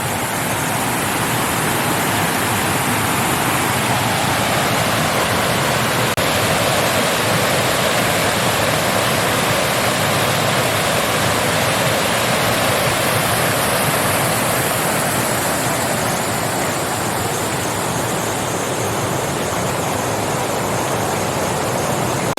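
Creek waterfall rushing and splashing close by, a loud steady roar of falling water.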